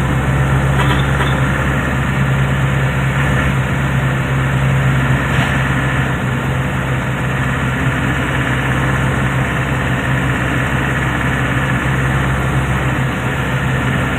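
A steady machine hum with a constant low drone, like an engine or motor running at idle.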